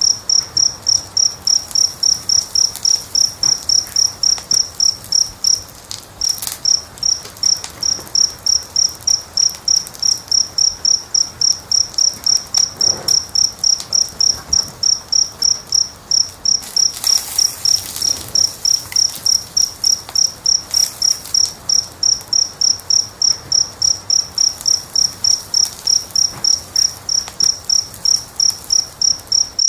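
A cricket chirping in a steady, even rhythm of about three high-pitched chirps a second, with one brief pause about six seconds in. Faint crackling of a wood fire sits beneath it.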